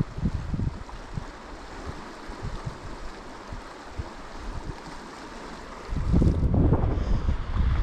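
River water flowing, with wind buffeting the microphone in low rumbling gusts that grow much louder about six seconds in.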